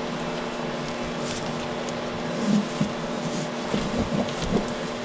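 A steady machine hum with several fixed tones, like a fan or heater running in the shop. Partway through come a few light knocks and rustles from handling the materials as fibreglass cloth is laid onto wet resin.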